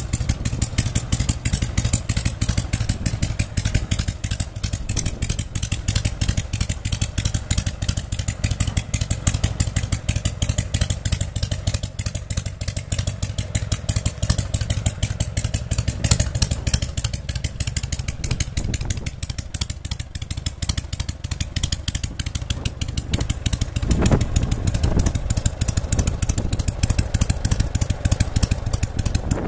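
Harley-Davidson Panhead V-twin motorcycle engine running steadily, a fast even train of firing pulses, with a couple of slight swells in level later on.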